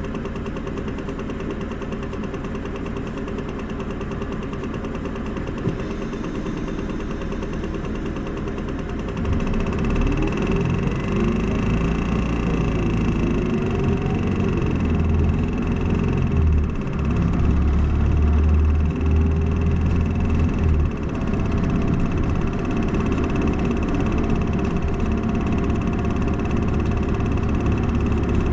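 Isuzu Erga city bus's four-cylinder turbo diesel idling steadily, then about nine seconds in the bus pulls away. The engine grows louder, rising and falling in pitch through its gear changes, then settles into steady running.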